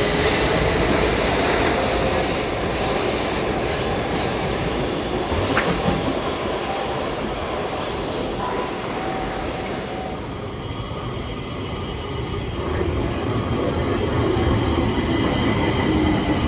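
Stockholm Metro train running on the rails with its wheels squealing and clattering. The squeal dies down about ten seconds in, and the rumble of the train grows again near the end.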